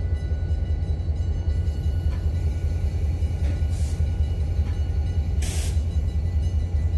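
Passenger coaches rolling past: a steady low rumble of wheels on the rails, with two short hisses about four and five and a half seconds in.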